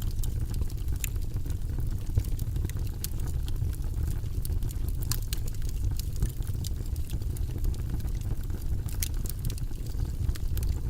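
Fire burning in a fireplace: a steady low rumble of flames with scattered sharp crackles and pops, one louder pop about two seconds in.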